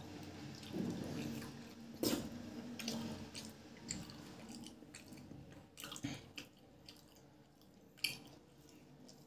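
Wet chewing and mouth smacks of someone eating rice and chicken curry, with a few sharp smacks at irregular intervals. At the start, fingers squish through the rice and curry on the plate.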